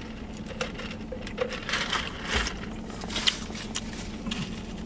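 Close-up eating sounds: chewing and mouth clicks as cornbread is eaten, over a steady low hum.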